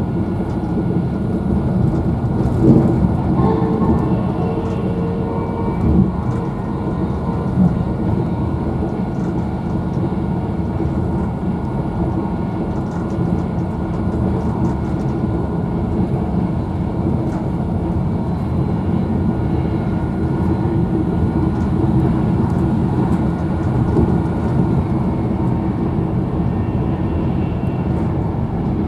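Interior noise of a Virgin Trains Class 390 Pendolino electric train running at speed: a steady rumble and hum, with a few short knocks in the first eight seconds.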